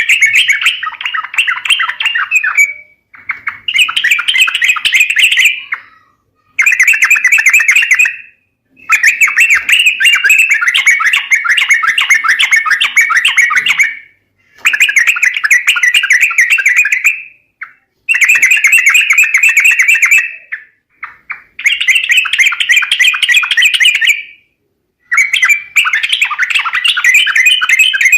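Yellow-vented bulbul (trucuk) song played as a bird-trapping lure: bouts of rapid chattering notes, each a few seconds long, repeating with short pauses between them.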